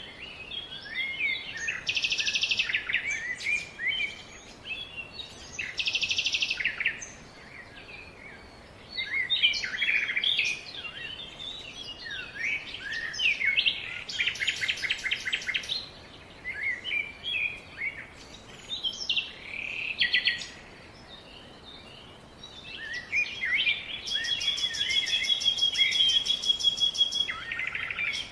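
Several songbirds chirping and singing together, with overlapping calls and rapid buzzy trills in short bouts; near the end one long fast trill runs for about four seconds.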